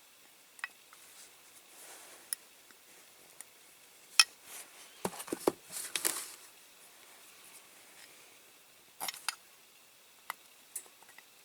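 Scattered sharp metallic clicks and ticks of tiny pliers working the tough metal tabs of a Dinky Toys diecast model tractor. The loudest click comes about four seconds in, followed by a quick run of clicks and a few more near the end.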